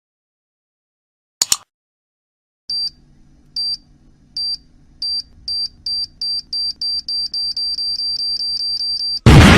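Sound effect of a bomb timer: a short click, then high electronic beeps that start about a second apart and speed up to several a second over a low hum. A loud explosion cuts in near the end.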